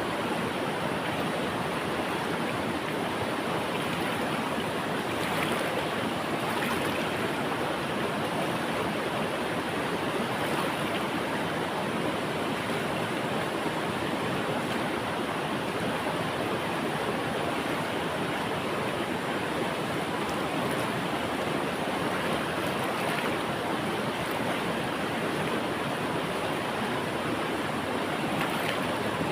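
A river flowing: steady rushing water with no breaks or changes.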